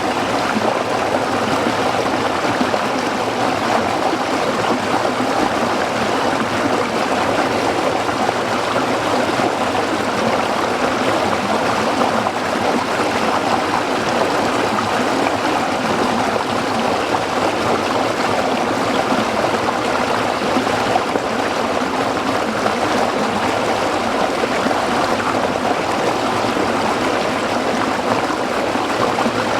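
Small stream flowing over rocks: a steady, even rush of water with a bubbling, trickling texture.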